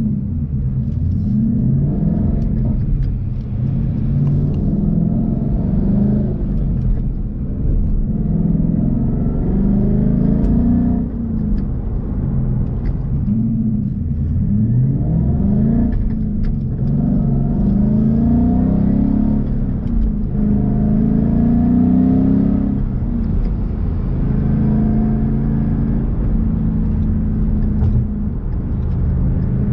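2016 Ford Mustang GT's 5.0 V8 through a Roush cat-back exhaust, accelerating through the gears of its manual gearbox: the engine note climbs and drops back with each of several upshifts, then holds a steady pitch at cruise in the last several seconds.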